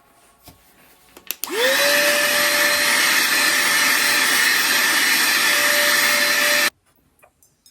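A click or two, then a small high-speed electric fan motor switches on, spins up fast to a steady whine with a loud rush of air, and runs for about five seconds before cutting off abruptly.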